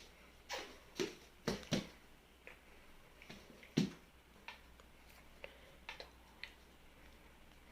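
Hands handling packaging: irregular sharp clicks and taps, with a few heavier knocks in the first few seconds and lighter ticks after that.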